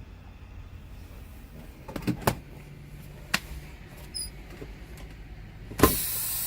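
A few light knocks about two and three seconds in, then a sharp click and a steady loud hiss of air near the end. This is the truck's parking-brake valves being pushed in, sending air rushing into the spring brake chambers to release them.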